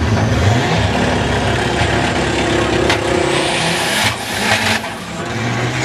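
Big-turbo Dodge SRT-4's turbocharged 2.4-litre four-cylinder engine at full throttle on a quarter-mile drag run. The pull is broken by two short drops in engine sound about four and five seconds in.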